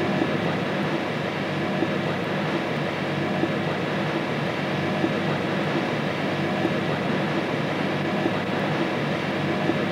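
InterCity train running along the line, heard from on board: a steady rumble of the train in motion.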